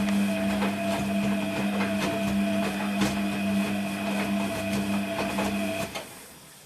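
Hoover HTC 172 washing machine's drum motor running with a steady hum, with irregular clicks and knocks as the drum turns the load; the motor stops about six seconds in, the pause between drum turns in the wash.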